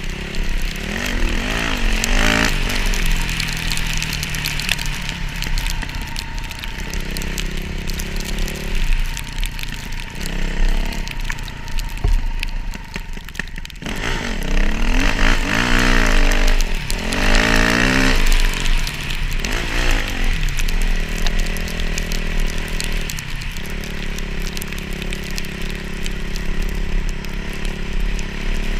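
Motocross dirt bike engine running, its pitch rising and falling as the throttle is worked, with the loudest run of revving about halfway through.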